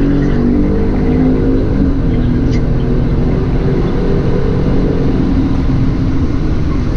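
A car's V8 engine running under way with low road rumble. Its pitch eases down a little in the first couple of seconds and then holds steady.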